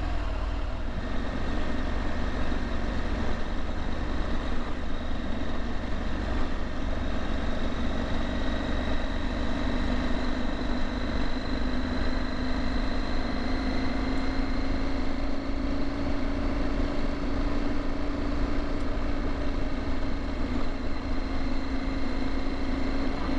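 Motorcycle engine running at a steady cruising speed, its pitch creeping slightly up about a third of the way in and then holding, over a low rumble of wind and road.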